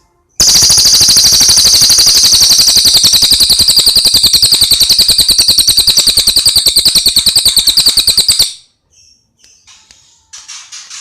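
Cililin songbird giving one long, loud, rapid rattling trill of many fast pulses lasting about eight seconds, then stopping. It is followed near the end by a few short, high chirps.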